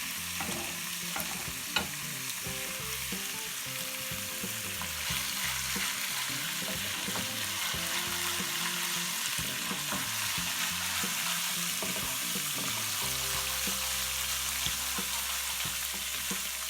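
Mashed garlic frying in butter in a pan, a steady sizzle with a few faint clicks, as the garlic-butter topping for molokhia cooks toward golden.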